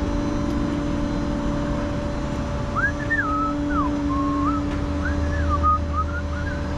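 A person whistling a short wandering tune of held notes and slides, starting about three seconds in, over a steady low mechanical drone with a constant hum.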